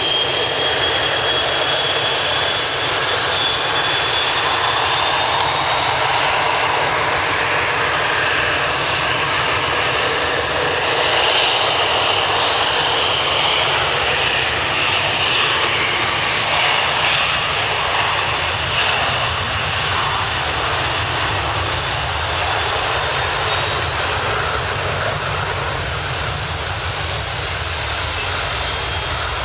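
McDonnell Douglas MD-90's twin IAE V2500 turbofans at full takeoff power: loud, continuous jet noise with a high whine on top, easing off slowly over the last dozen seconds.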